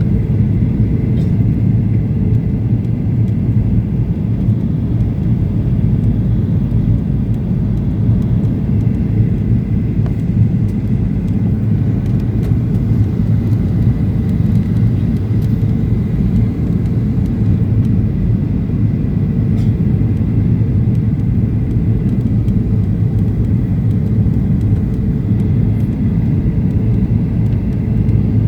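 Steady, loud cabin rumble of a Boeing 737-800 in flight on approach: its CFM56-7B engines and the airflow over the fuselage, with a faint steady whine above it.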